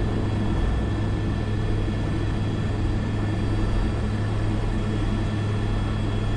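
Airbus AS350 B3 helicopter's turbine and rotor running steadily in flight, heard from the cockpit: an even drone with a strong low hum and fainter steady high tones.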